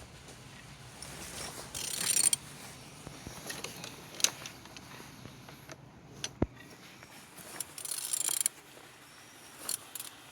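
Opel A18XER four-cylinder petrol engine being turned over by hand with a wrench on the crankshaft: mechanical rasping and ratchet-like clicks, with two longer rasps and a few sharp clicks. It turns freely, a sign the engine is not seized.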